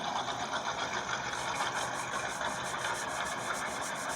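Car engine idling steadily, with a fast, even pulsing that sets in about a second in.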